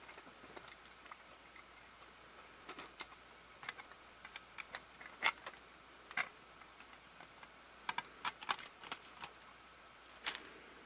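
Sparse light clicks and taps from a VHS cassette's small plastic parts and reels being handled, with a quick run of clicks about eight seconds in.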